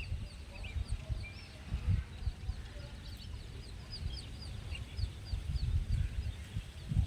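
Chicks peeping: many short, high chirps, several a second, with a low rumble from wind or handling beneath.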